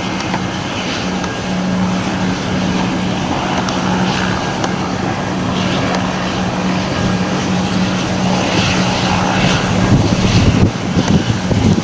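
Jet airliner engines running with a steady, loud roar and a constant low hum underneath. Irregular low buffeting comes in near the end.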